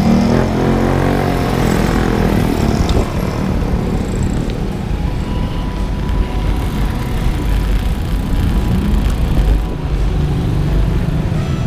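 Wind rumbling on the microphone during a road ride. A motor vehicle's engine is heard for the first three seconds or so, then fades.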